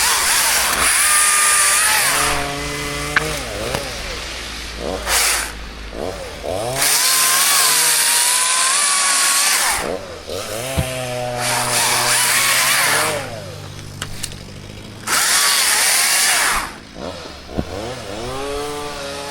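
Two-stroke chainsaw cutting birch wood in repeated bursts, with five loud cuts of about one to three seconds each. Between cuts the engine pitch falls and rises as the throttle is let off and opened again.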